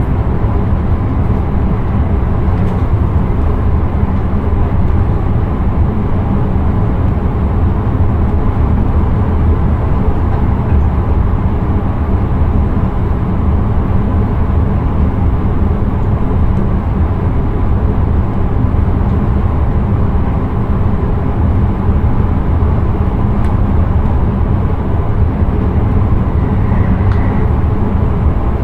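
Steady running noise of an intercity train heard from inside the driver's cab: a continuous low rumble of wheels on rail with a constant mid-range hum.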